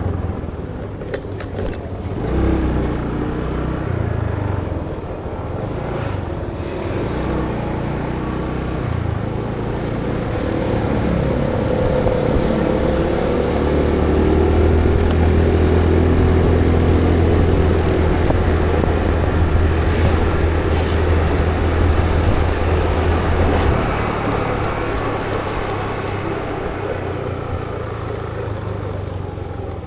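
Road vehicle engine running with tyre and traffic noise. It grows louder and rises in pitch from about ten seconds in, then eases off again after about twenty-four seconds.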